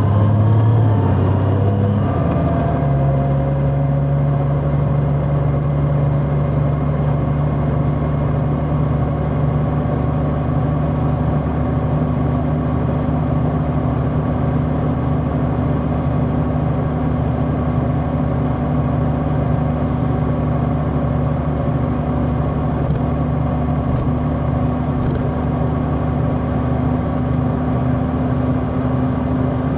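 Large motorcycle engine running while riding, heard from on board: the engine note shifts about two seconds in, then holds steady at a cruise.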